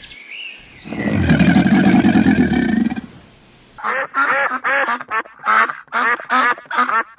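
A deep, drawn-out animal call for the first three seconds, then from about four seconds in a rapid run of duck quacks, two or three a second.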